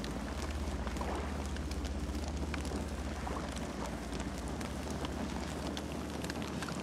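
Wood campfire crackling: frequent sharp snaps and pops over a steady hiss, with a low rumble underneath that drops away near the end.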